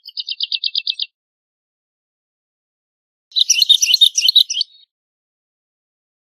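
Woodlark singing: a quick run of about nine repeated notes lasting a second, then after a pause a denser, more varied phrase of about a second and a half.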